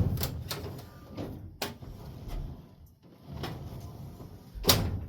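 Things being moved and handled in a search, with scattered knocks and rustling and a louder knock near the end.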